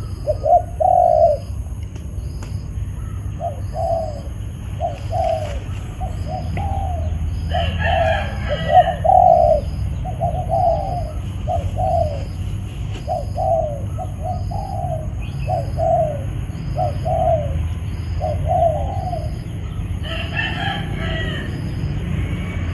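A dove cooing in a steady rhythmic series, short coos a little under a second apart with brief pauses between runs. A second, higher-pitched bird calls briefly twice, about eight seconds in and near the end.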